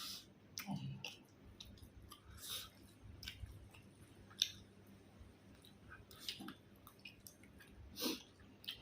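A person eating close to the microphone: irregular wet chewing, smacking and small crunches as meat is bitten and chewed.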